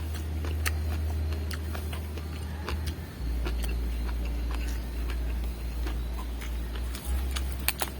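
Chewing and crunching of raw vegetables, with scattered crisp clicks at irregular intervals over a steady low rumble.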